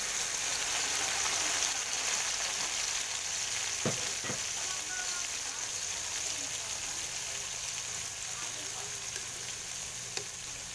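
Chopped tomatoes sizzling in hot oil in a wok with sautéed garlic and onion, stirred and scraped with a spatula; the sizzle is steady and eases slightly. Two light knocks about four seconds in.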